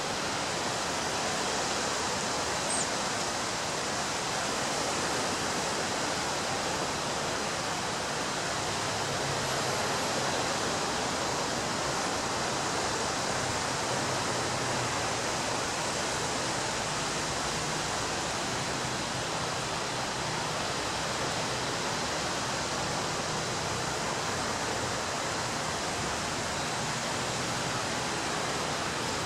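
Ocean surf breaking on a beach, heard as a steady, even wash of noise with no distinct swells rising or falling.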